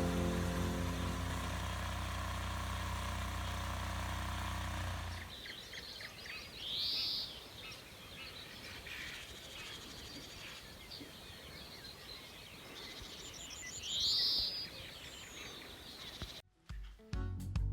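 A steady droning hum stops about five seconds in, leaving quiet outdoor ambience in which a bird gives two short rising calls several seconds apart.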